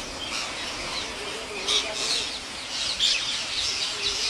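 Parrot giving a string of short, high chirps and calls, a few louder, sharper ones from about halfway.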